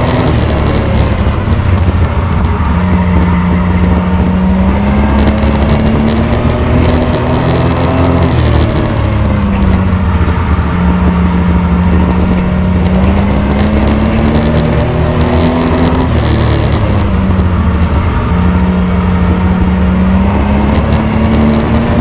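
Race truck's engine running hard, its pitch climbing for several seconds on the straights and dropping back as it lifts for the turns, about every seven to eight seconds.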